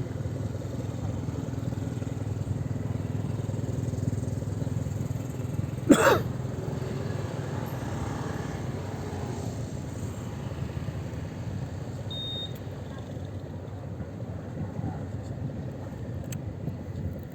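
Fast passenger boat's engines running with a steady low rumble. A single brief loud sharp sound comes about six seconds in, and a short high beep comes near the middle.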